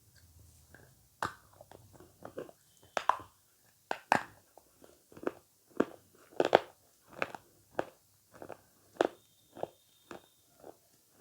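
A person biting and chewing avocado close to the microphone: a run of sharp, separate crunches, about one or two a second, starting about a second in.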